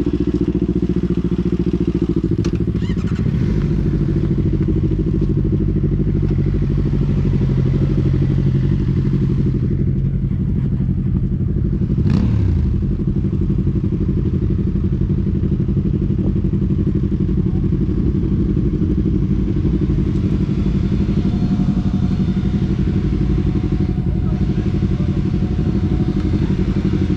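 Superbike engine running steadily with little change in pitch, with a single sharp knock about twelve seconds in.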